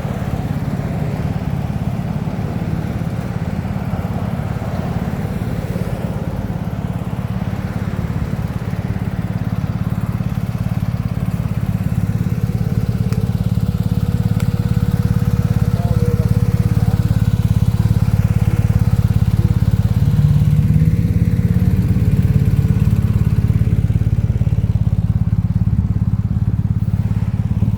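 Vehicle engine running steadily with a low drone, growing somewhat louder over the middle of the stretch.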